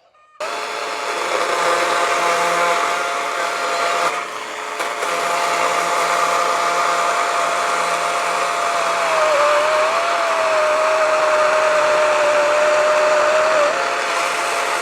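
Gas chainsaw running at full throttle, cutting into the end of an oak log. Its engine pitch sags and wavers under load about two-thirds of the way through, then climbs back near the end.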